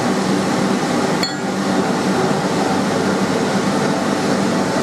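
One light metal-on-metal clink about a second in, ringing briefly, as steel hardware such as a rag bolt knocks against the anvil. A steady hum and hiss runs underneath.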